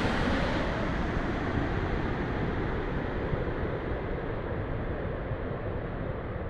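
Airbus A350's Rolls-Royce Trent XWB jet engines fading as the landing airliner moves away, a steady rush that grows duller and quieter as the high end drops off.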